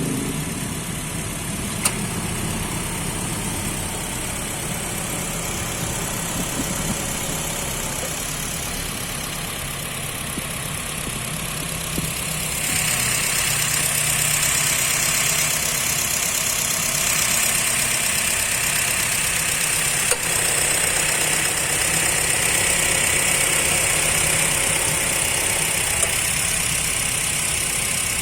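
Honda BR-V's engine, with 25,000 km on it, idling steadily. About twelve seconds in, a brighter hiss joins and the sound gets a little louder.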